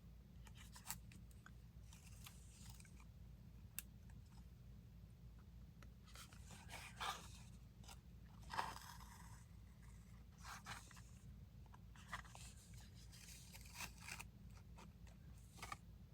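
Faint, scattered rustles and scrapes of paper and thread as a paper tag is hand-stitched, with an occasional small click, over a low steady hum.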